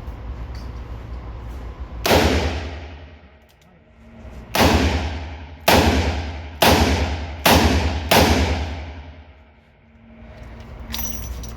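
Six loud shots from a snub-nosed revolver firing heavy-bullet magnum handloads, each with a long reverberating tail: one about two seconds in, then five more about a second apart.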